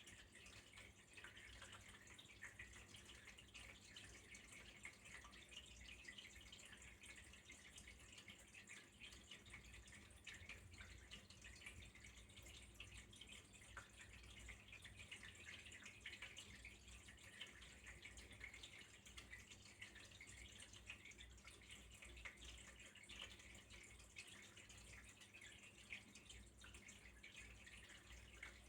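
A small stream of water trickling and dripping steadily, faint and continuous.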